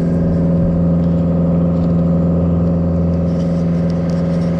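John Deere 333G compact track loader running steadily, with the slight whine that seems to come from one of its final drives while the machine is still cold.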